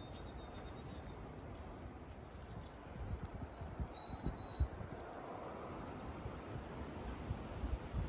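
A flock of sparrows singing thin, high notes, which the birder takes for Savannah sparrows, under low wind rumble on the microphone.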